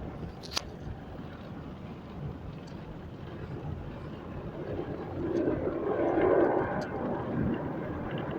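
Car wash equipment running with a steady noisy rumble that swells louder about five seconds in. A single sharp click comes under a second in.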